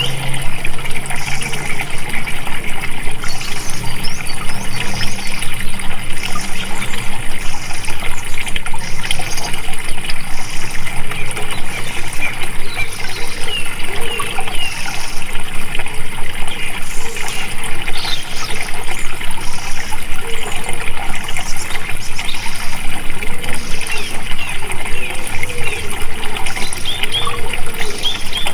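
Water flowing and gushing steadily, with small birds chirping over it and a high-pitched sound that comes and goes about once a second.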